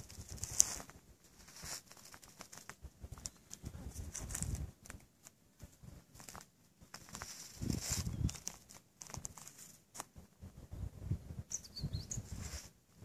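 Outdoor ambience: a few short bird calls, one about half a second in and a falling chirp near the end, over irregular low rumbles and scattered clicks on the microphone.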